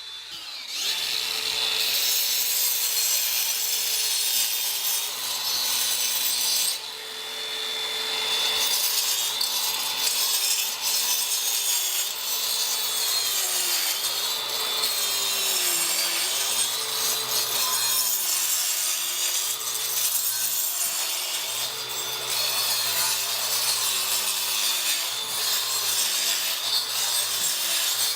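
Power saw cutting into an old wall, its motor hum sagging and recovering as it bogs under load, over a steady loud cutting hiss. It eases off briefly around seven seconds in and then carries on.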